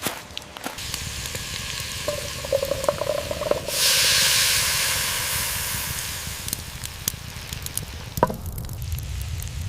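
Food hitting a hot pan over a campfire and sizzling: a loud hiss starts suddenly about a third of the way in and slowly dies down. A couple of small knocks follow near the end.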